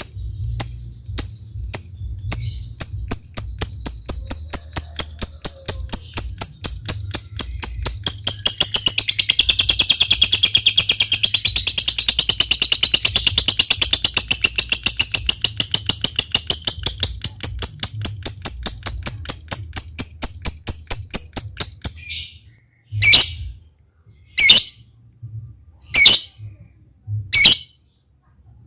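Lovebird calling: a run of sharp ticking chirps that quickens into a long unbroken chattering trill (the 'ngekek panjang') lasting about fourteen seconds, which stops abruptly. After that come single loud squawks about every second and a half, over a low steady hum.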